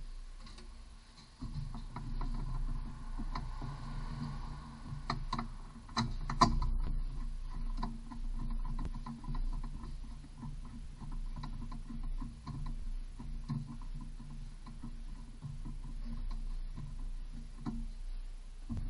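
Scattered light clicks and knocks of tools and metal parts being handled during wheel-hub work, with one sharper knock about six seconds in, over a steady low hum.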